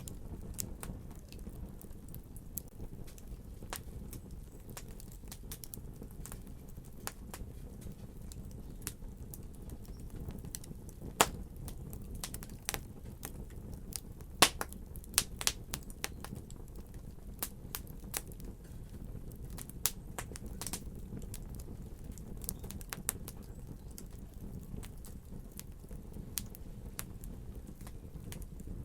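Wood fire crackling: irregular sharp pops and snaps over a steady low rumble of flame, with a few louder pops about 11 and 14 seconds in.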